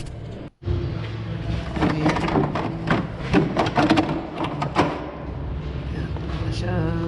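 Quick sharp clicks and clatters of hand tools and plastic trim tabs being worked loose, bunched between about two and five seconds in, over a steady low hum.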